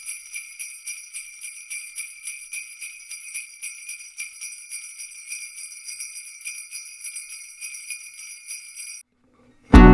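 Jingle bells shaken in a fast, even rhythm, ringing steadily until they stop about a second before the end. Strummed guitar music starts right at the close.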